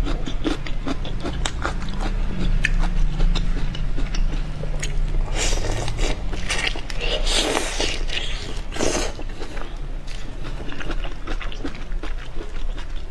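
Close-up eating sounds: a person biting and chewing food, with many short wet clicks and smacks and a few longer, breathier bursts around the middle.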